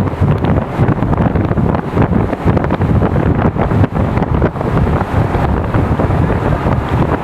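Heavy wind buffeting the microphone, a loud rumbling roar that gusts up and down throughout.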